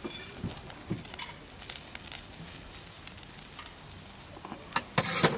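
Food cooking over a campfire: faint crackling and sizzling with scattered small clicks, and a louder burst of clicks and clatter near the end.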